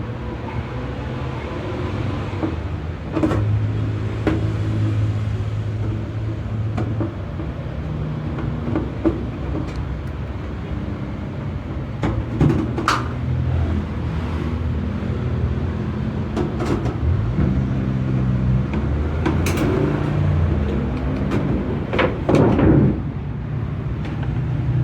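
Scattered clicks and knocks of plastic panel parts being handled and opened on a washing machine, a few seconds apart, over a steady low engine hum from passing traffic.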